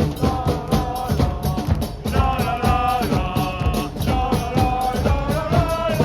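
Football supporters' chant: a song sung over steady drumming.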